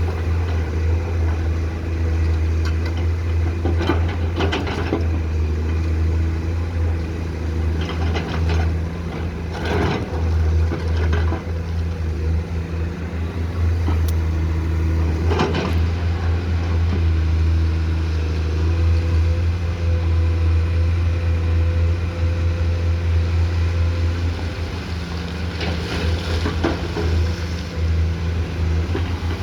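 Komatsu PC210-10M0 hydraulic excavator's diesel engine running steadily at working speed, with about nine short knocks and scrapes scattered through as the machine works.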